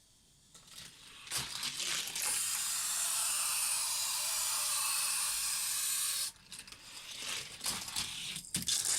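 A Hot Wheels die-cast car rolling fast down a plastic track, a rising then steady rushing whir of small wheels on plastic that cuts off suddenly about six seconds in. It is followed by a run of irregular clattering knocks as the car drops, jumps, bounces and tumbles on the track.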